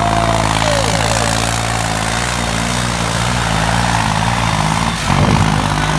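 New Holland 3630 tractor's diesel engine running hard and steadily, with a brief change in its note about five seconds in.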